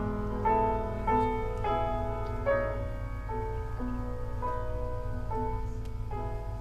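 Solo piano playing a slow melody of single notes, with a steady low hum underneath.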